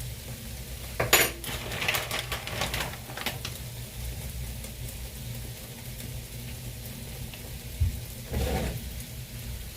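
Pots, pans and metal utensils clattering and clinking in a kitchen: a run of knocks and clinks about a second in, lasting a couple of seconds, and another short clatter near the end, over a steady low hum.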